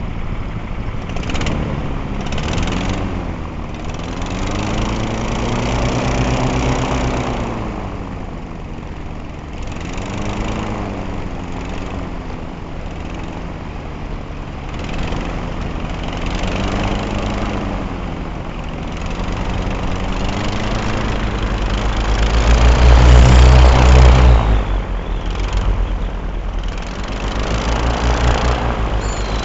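Twin-engine airboat's engines and propellers running under way, the revs rising and falling in slow waves. The loudest surge comes a little over twenty seconds in.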